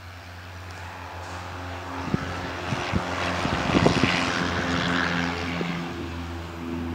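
Propeller airplane engine passing, growing louder to a peak about four seconds in and then fading.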